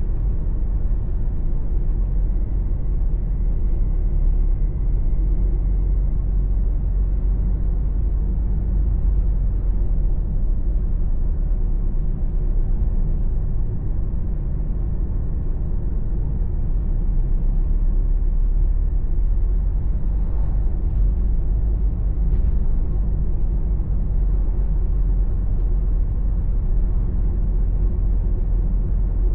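Steady low rumble of engine and tyre noise heard inside the cabin of a moving car.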